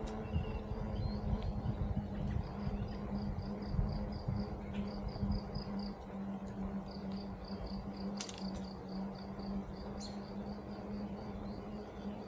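Cricket-like insect chirping in a steady series of high pulses, about five a second, in runs lasting a few seconds. Beneath it are a steady low hum and a low rumble.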